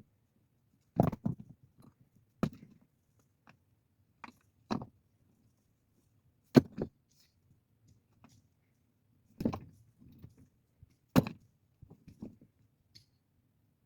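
A series of irregular knocks and thuds from hard objects striking or being set down, about eight in all, with the sharpest about six and a half seconds in and again near the end.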